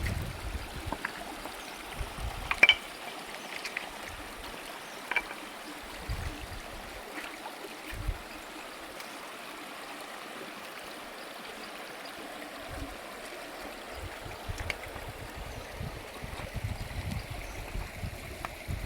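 Stream water running steadily, with a few short sharp clicks or knocks; the loudest comes about three seconds in.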